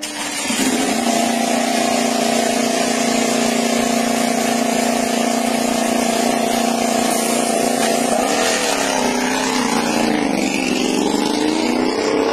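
MotoGP racing motorcycle engine running at a steady high pitch for several seconds, then dropping as the bike slows about eight seconds in and climbing again near the end as it accelerates.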